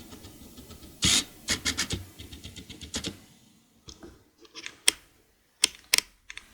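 Scattered small clicks, taps and short scrapes of hand tools and small parts being handled inside an opened ThinkPad T530 laptop during disassembly, in a few irregular clusters.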